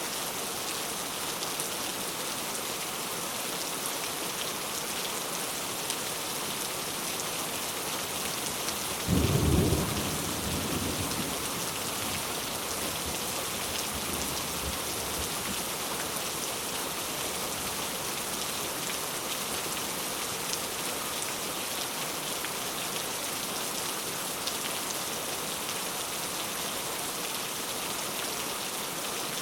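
Steady rain falling, with a sudden low thunderclap about nine seconds in that rumbles away over the next couple of seconds.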